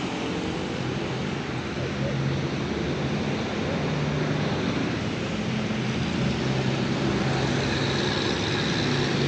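Street traffic: a motor vehicle's engine running close by over a steady hiss of road noise, growing a little louder about two seconds in.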